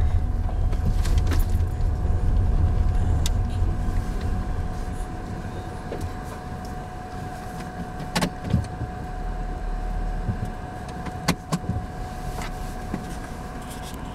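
Car cabin road noise: a low rumble that dies down after about four seconds as the car slows, leaving a quieter hum with a faint steady tone, and a few scattered clicks near the end.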